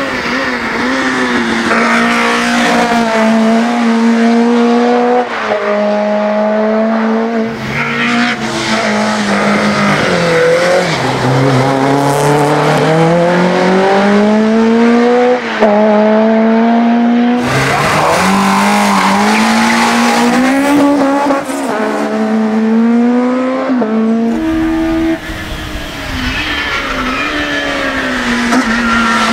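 Racing touring-car engines (2.0-litre class) pulling hard uphill, each one's pitch climbing under acceleration and dropping at every upshift. Several separate cars or passes follow one another with abrupt cuts.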